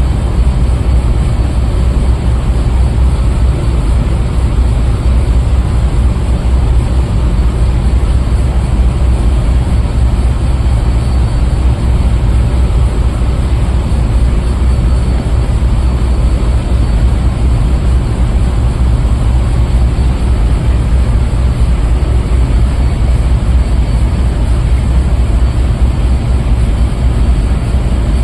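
Loud, steady machinery drone of a ship's engine and scrubber spaces, strongest in the deep bass, with no change throughout.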